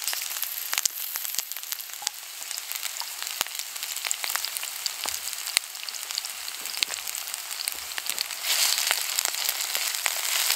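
Diced potatoes frying in hot oil in a cast iron skillet: a steady sizzle with many small sharp pops and crackles. The sizzle grows louder about eight and a half seconds in.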